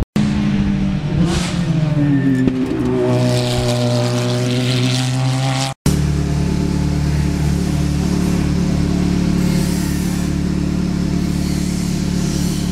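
Ferrari F430 GT3's V8 engine running while the car stands still. Its pitch rises a little a few seconds in and holds there. After a brief cut-out about six seconds in, it idles steadily.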